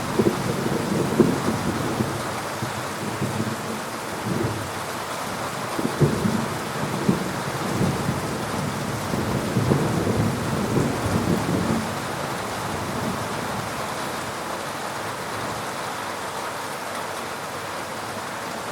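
Steady heavy rain hissing, with thunder rolling and crackling over it for the first two-thirds, then dying away to leave only the rain.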